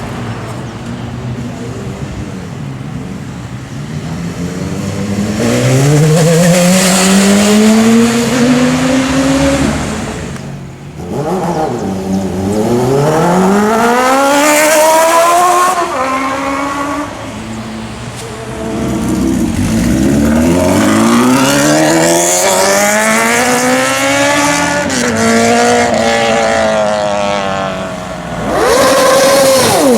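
Sport motorcycles accelerating hard one after another, each engine's pitch climbing in a long rise through the revs before falling away; about four such runs, loud.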